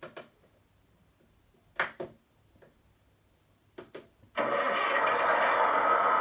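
Model train's DCC sound decoder playing a diesel railcar engine start-up through the small speaker fitted in a Bachmann Class 166: a few short clicks, then a little over four seconds in the engine sound starts suddenly and runs on steadily. The decoder's sound file is meant for a two-car Class 158, so two engines start up.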